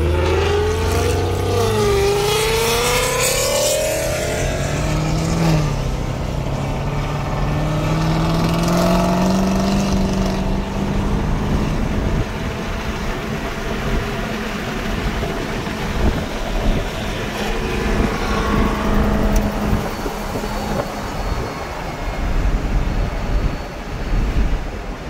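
Car engine accelerating hard through the gears, heard from inside a following car at speed: the pitch climbs for a few seconds, drops at a shift about five seconds in, climbs again, then holds steady under road and wind noise.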